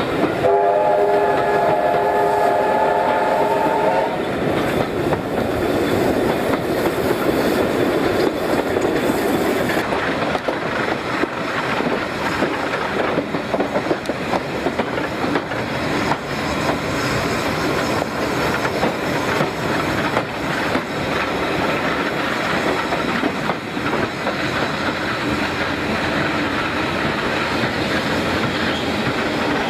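A train's whistle sounds once for about three and a half seconds near the start, then a train runs on steadily with wheels clattering over the rail joints.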